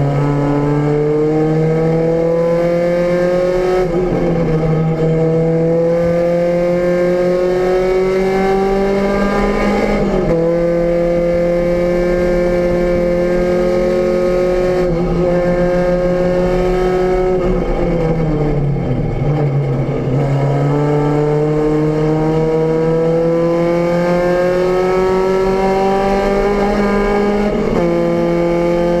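VW Rabbit GTI race car's 1.8-litre four-cylinder engine heard from inside the cabin, pulling hard through the gears: revs climb and break at shifts around 4 and 10 seconds in, fall away steeply about two-thirds through, then climb again to an upshift near the end.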